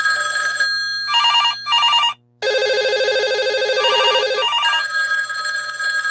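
Several telephones ringing over one another as a sound effect. Steady electronic ring tones mix with short repeating beeps and a fast trilling bell ring. The sound cuts out briefly just past two seconds.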